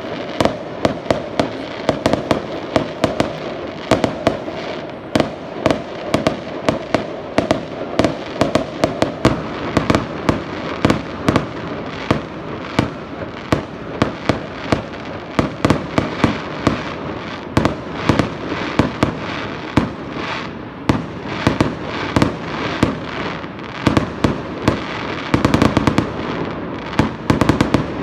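Small fireworks going off: a continuous run of sharp pops and bangs, several a second, over a steady hiss, with a denser rapid volley near the end.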